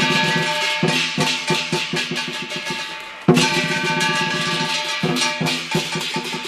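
Chinese lion dance percussion of drum, gong and cymbals playing a steady beat. About three seconds in comes a loud crash that rings on and fades, with quicker strokes between the crashes.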